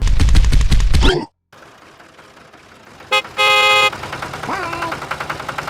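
A loud, deep burst for about the first second that cuts off suddenly, then a short vehicle horn toot about three seconds in, held for about half a second.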